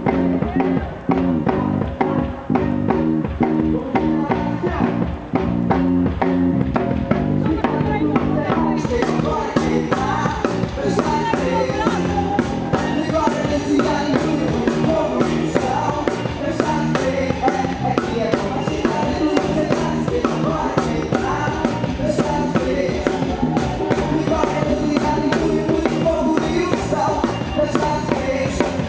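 Live worship band playing loud, steady music: drum kit beating time under guitar, bass and singing.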